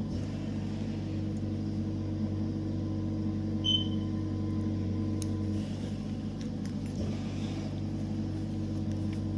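Steady electrical hum from equipment, with a single short high-pitched beep about four seconds in and a few faint clicks.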